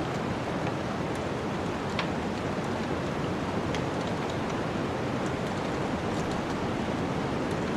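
Steady rushing wind of a snowstorm, with scattered sharp crackles and pops from a wood fire.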